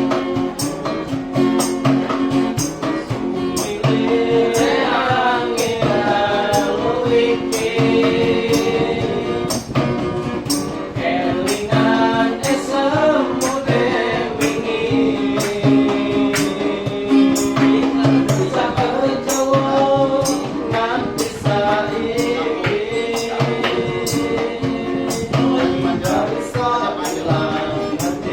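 A song sung with guitar accompaniment, with a regular tambourine-like tick about twice a second.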